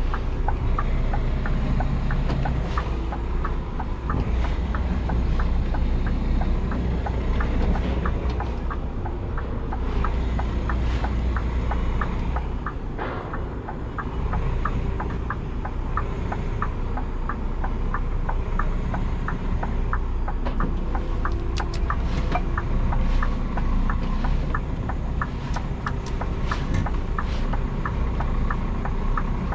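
Scania G410 truck's 13-litre inline-six diesel running under way, a steady low drone, with a regular light ticking running through it and a brief easing of the engine about a third of the way in.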